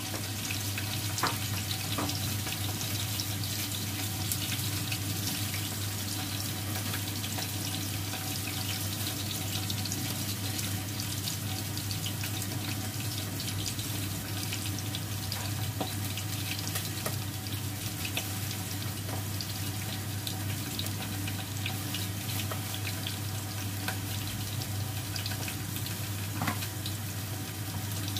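Onions frying in oil in a pot on a gas stove: a steady, even sizzle, with a low steady hum underneath.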